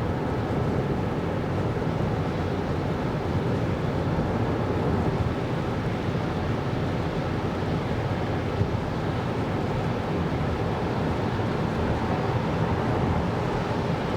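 Steady low rumble of road and tyre noise from a 2024 Kia Carnival Hybrid minivan on the move.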